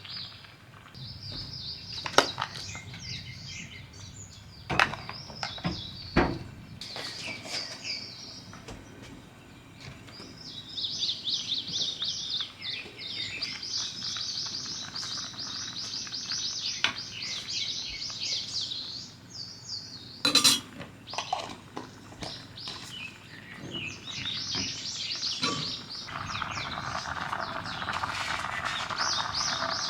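Small birds chirping and twittering in dense runs, with a few sharp clinks and knocks of dishes and utensils. From about 26 seconds in a steady hiss joins them.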